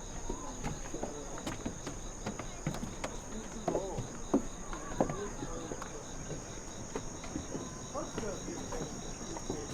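Insects chirring in a steady high-pitched drone, under faint distant voices of people and a few light clicks.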